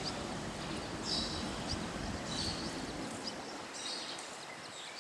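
Birds calling outdoors, with short high chirps repeating about once a second, over a low rumble that fades out about three seconds in.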